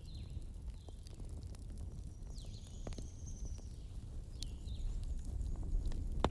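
Wood campfire burning: a low steady rumble with scattered crackles and sharp pops, the loudest pop near the end. A few short high chirps sound over it.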